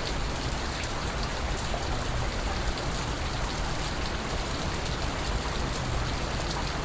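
Steady rain falling, with individual drops ticking here and there over an even hiss.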